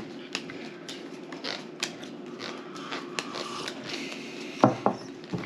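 Scattered light clicks and taps of playing cards and their box being handled while a card game is set up, with one louder knock about four and a half seconds in.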